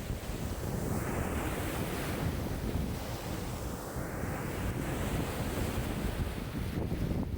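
Wind-driven lake waves breaking and washing ashore in strong wind, surging about every two to three seconds, with wind buffeting the microphone as a steady low rumble.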